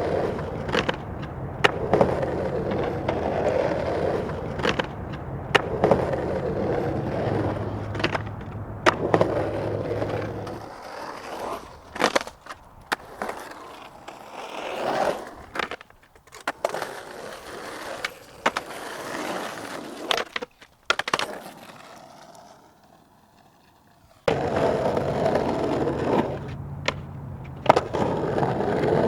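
Skateboard wheels rolling on pavement, with sharp clacks from the board popping, landing and hitting obstacles. The rolling stops abruptly about a third of the way in, and a quieter stretch with scattered clacks follows. Steady rolling picks up again near the end.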